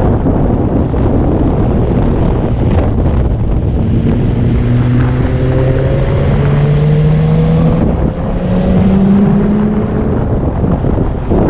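Heavy wind buffeting on a helmet-mounted camera during a motorcycle ride. Under it, the Yamaha R1's inline-four engine note climbs steadily in pitch through the middle few seconds.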